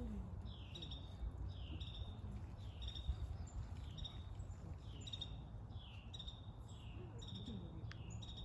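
A bird calling over and over: a short high note that sweeps down and levels off, about once a second, over a low rumble.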